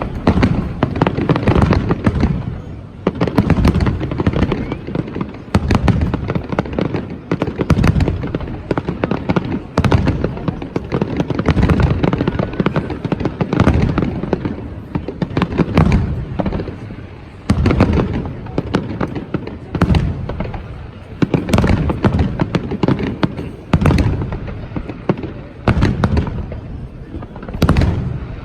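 Fireworks display: aerial shells going off in a steady string of loud bangs, about one every second or two, each with a rumbling echo and crackle trailing off.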